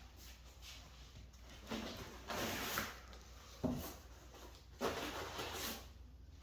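Packing material rustling and parts being handled during unboxing, in several short bursts with a sharp knock a little past halfway.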